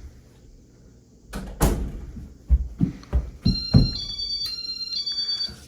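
A bedroom door being shut: a series of thumps and knocks. About three and a half seconds in, a high electronic tone pattern starts, stepping between a few pitches for about two seconds.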